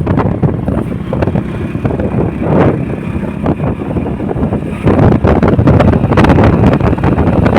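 Wind buffeting the microphone of a rider on a moving motorcycle, a loud, gusty rush that gets louder about five seconds in.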